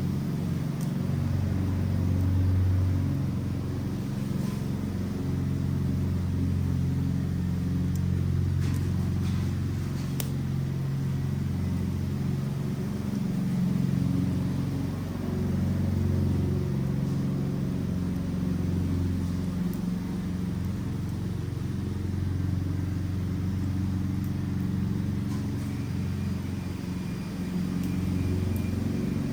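Wood fire burning an Adirondack chair: a steady low rumble of the flames with a few sharp crackles and pops around eight to ten seconds in.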